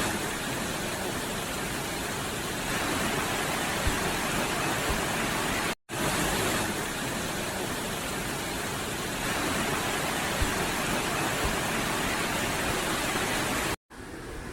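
Steady rushing roar of a waterfall, cut off abruptly twice, briefly near six seconds and again near the end.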